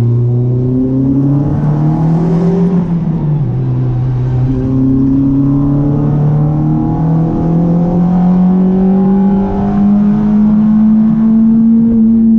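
Renault Clio RS 182's 2.0-litre four-cylinder engine pulling hard under acceleration, its pitch climbing with the revs. About three seconds in the pitch drops suddenly at an upshift, then climbs slowly again through the next gear.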